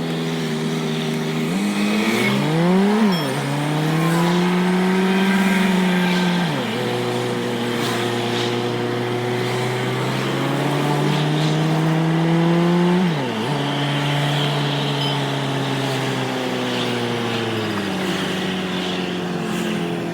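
Truck engine pulling under load, its pitch climbing slowly in each gear and dropping sharply at the gear changes, three times, then easing off near the end.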